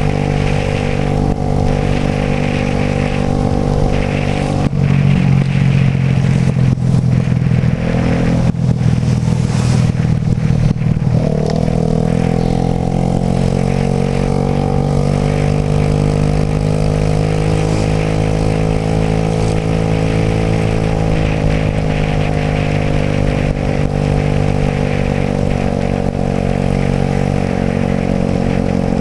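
Suzuki Burgman AN125 scooter's single-cylinder engine running under way, its pitch shifting about five seconds in, then climbing steadily as it accelerates about eleven seconds in before holding level. A steady rushing noise runs over it.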